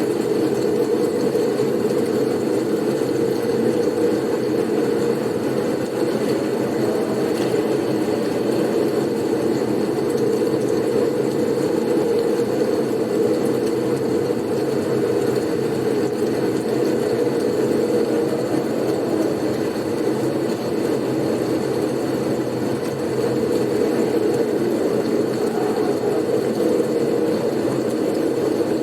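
Steady blizzard wind noise: an even, low rushing sound with a faint thin hiss above it.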